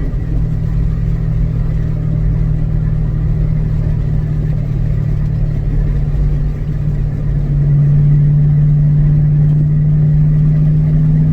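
2006 Ford Mustang GT's V8 engine droning steadily while the car is driven, heard from inside the cabin. About two-thirds of the way in the sound dips briefly, then comes back louder and steadier.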